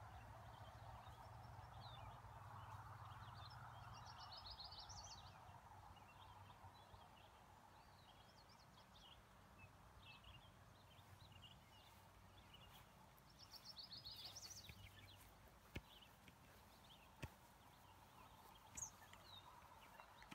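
Several songbirds singing faintly: scattered chirps, with a rapid trill of repeated notes about four seconds in and another about thirteen seconds in. A couple of sharp clicks come near the end.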